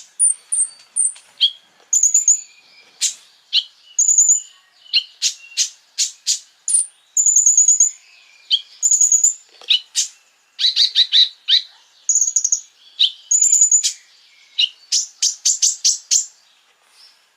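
Konin bird singing: a fast, varied series of sharp high chirps and whistled notes, broken by quick rapid-fire runs of notes.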